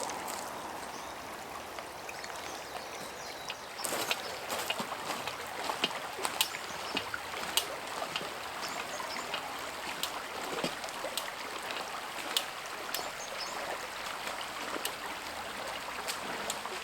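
Wood campfire burning, with a steady hiss and frequent sharp crackling pops that grow busier about four seconds in.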